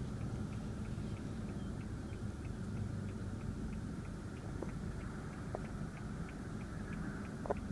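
Low steady hum inside a car's cabin with the engine idling, with a faint, quick, even ticking and a few small clicks.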